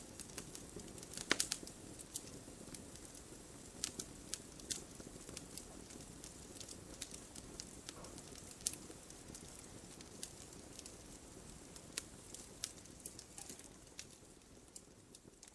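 Wood fire burning in a fireplace: a steady low rush of flames with irregular sharp crackles and pops from the logs, a quick cluster of pops about a second in.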